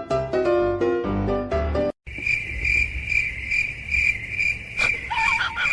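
Piano-like music that cuts off abruptly about two seconds in, followed by steady high-pitched chirping pulsing about two and a half times a second, like a cricket. Near the end come a click and a few short, squeaky falling chirps.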